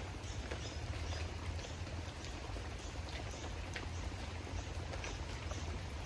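Rain falling steadily, with scattered drips and taps and a steady low rumble underneath.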